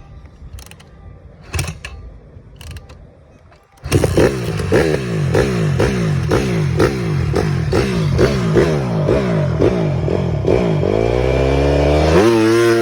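Honda 150 dirt bike engine, quiet at first, then loud about four seconds in as it is ridden off hard, its pitch climbing and falling again and again, then rising in one long sweep near the end and holding high.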